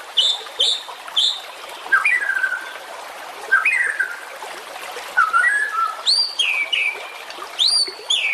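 Songbird singing a varied whistled song in separate phrases over a steady background hiss. It opens with three short high notes, moves to lower slurred phrases, and ends with two high sweeping notes that fall away.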